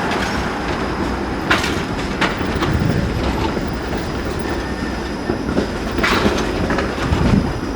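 A TTC Flexity Outlook streetcar rolling slowly through the switches and crossings of the intersection's track, its wheels clacking sharply over the joints a few times with a faint wheel squeal, over steady street traffic noise.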